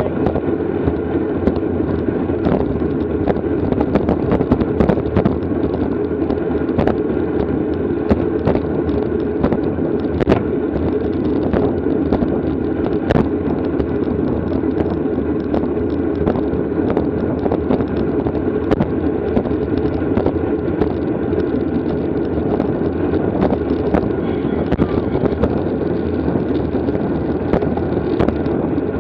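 Steady rush of wind and road noise from a bicycle riding at race speed, with frequent small clicks and ticks scattered through it.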